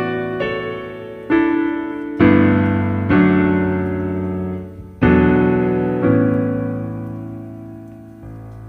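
Background piano music: slow chords struck about once a second or two, each left to ring and fade.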